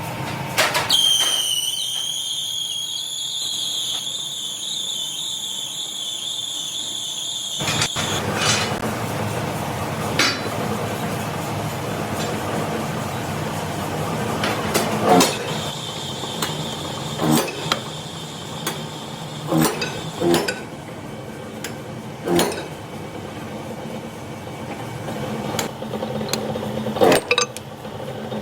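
Metalworking in an axle factory: a steady high-pitched squeal lasts about seven seconds, then scattered metal knocks and clanks sound over a steady machinery hum.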